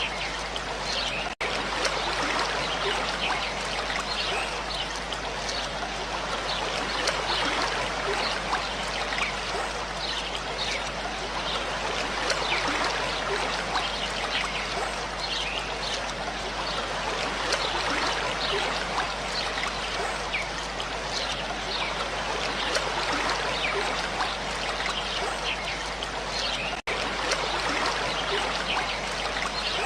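Running water, a steady splashing and trickling like a small stream, with two momentary dropouts in the sound.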